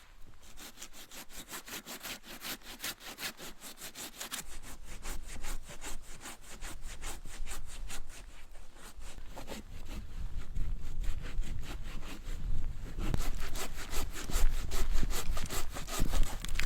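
Hand saw cutting through wood in quick, regular rasping strokes, growing louder over the second half.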